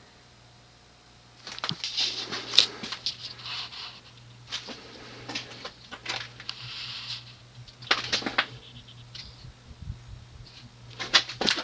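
Hunter Original ceiling fan's cast-iron oil-bath motor running on low with a steady low residual buzz, a sign that its isolation ring is not damping the motor as well as it should. From about a second and a half in, louder irregular high chirps and clicks come and go over the buzz.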